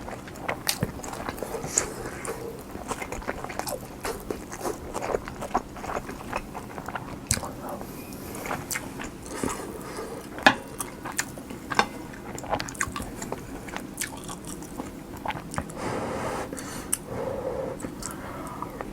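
Close-miked eating sounds of cheese and egg kimchi fried rice: chewing with frequent small wet clicks and smacks, irregular throughout.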